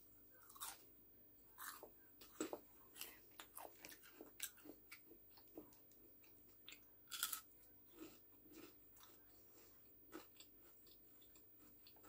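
Close-up chewing of a crisp battered onion ring: irregular small crunches and wet mouth sounds, with a few louder crunches along the way.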